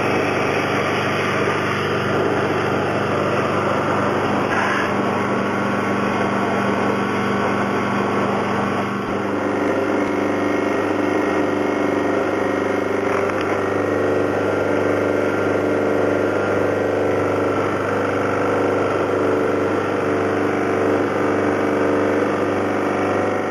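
A small motor running steadily, its sound changing about nine seconds in with a wavering, bubbling texture added.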